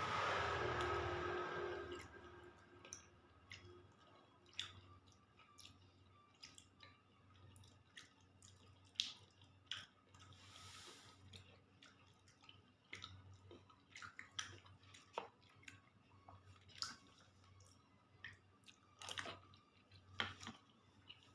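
A person eating sweet mung bean porridge with black sticky rice, chewing softly with scattered small clicks. It opens with a louder rushing sound lasting about two seconds.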